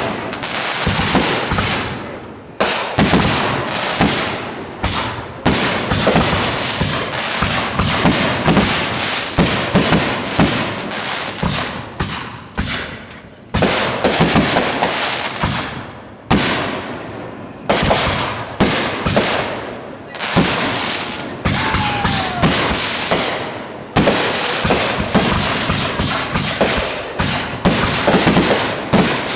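Fireworks going off in a dense, continuous barrage of bangs and crackling, with a fresh loud blast every few seconds, each trailing off.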